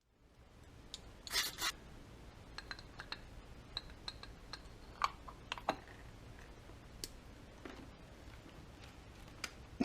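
Scattered light clicks and short scrapes of small parts being handled, with a louder double scrape about a second and a half in, over a faint steady hum.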